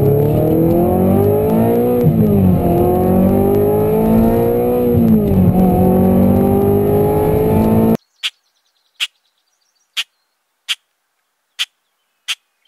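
Car engine accelerating, its pitch climbing and then dropping sharply twice as it changes up through the gears. About eight seconds in it cuts off abruptly, and a series of short, sharp clicks follows, roughly one every three-quarters of a second.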